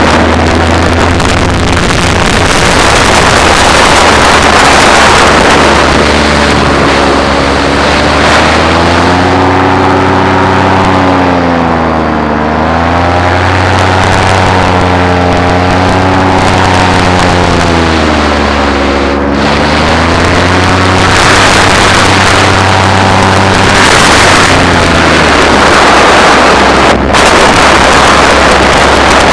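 Paramotor engine and propeller running steadily in flight, the engine note dipping and rising again a few times, with wind noise on the microphone.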